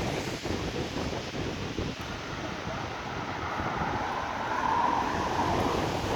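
Cars driving along a rain-soaked street, their tyres hissing and throwing up spray. The sound swells as one goes by about five seconds in.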